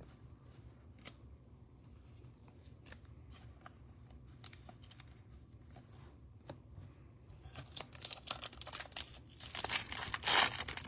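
Baseball trading cards being handled, with light clicks and snaps as cards are flipped. About eight seconds in, a busier crinkling and tearing starts, typical of a foil card pack being torn open, and it is loudest near the end.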